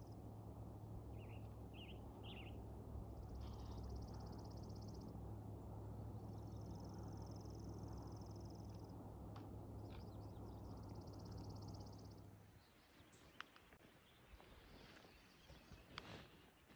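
A small songbird sings a high, rapid trill three times, with a few short chirps just before, over a steady low rumble. The rumble stops about three quarters of the way through, leaving a few light crackles.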